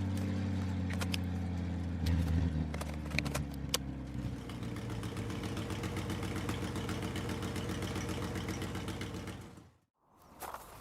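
A motor engine running steadily with a rapid, even pulse and a few clicks, fading out to silence near the end.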